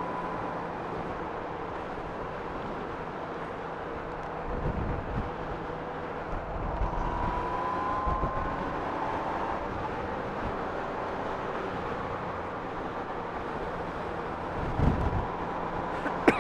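Honda Gold Wing motorcycle riding slowly in traffic, heard from the rider's camera: steady engine, wind and road noise with a faint steady whine. Low wind gusts buffet the microphone about five seconds in and again near the end.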